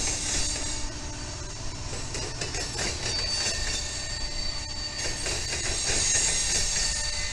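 Union Pacific diesel freight locomotive and covered hopper car rolling slowly past, the engine rumbling steadily under high-pitched wheel squeal.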